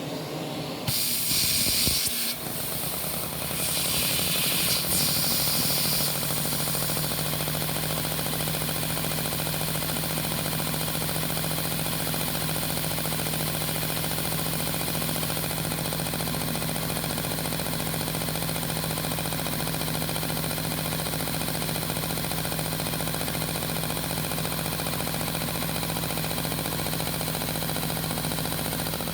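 Lego V-twin vacuum engine running on suction, its two pistons drawing air through holes in the cylinder walls: a steady mechanical hum under a rushing hiss of air. Louder hissing surges come in the first six seconds before it settles into an even run.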